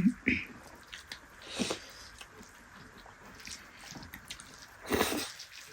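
Close-up eating sounds: chewing and small wet mouth clicks from someone eating dal bhat with dried yak meat, with a louder, brief noisy sound about five seconds in.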